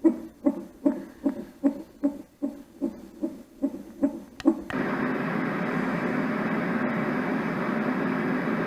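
Roffie N600 sound machine's speaker playing a recorded heartbeat-like low beat, about two and a half pulses a second. At about five seconds in it switches abruptly to a steady white-noise-type hiss, the next of its built-in sounds.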